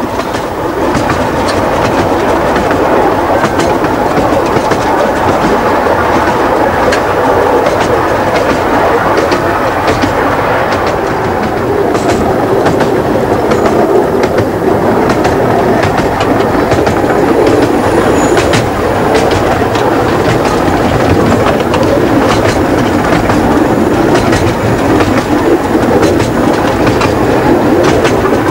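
Riding in a carriage of a 15-inch gauge miniature railway train under way: a steady rumble of the running wheels with a quick, uneven clatter of clicks over the rail joints.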